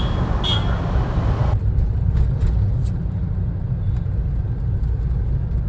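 Steady low rumble of a moving vehicle on the road, with two short high chirps right at the start; the hiss above the rumble drops away about a second and a half in.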